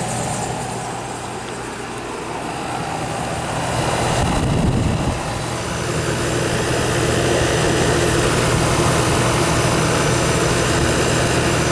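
Vintage Aqua-Dri 25-pint dehumidifier running: its fan blows steadily over the low, even hum of a very quiet compressor. A brief low bump comes about four and a half seconds in.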